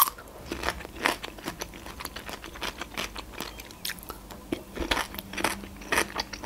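Crisp bites and chewing of a fresh cucumber stick, close to the microphone: a quick, irregular string of sharp crunches.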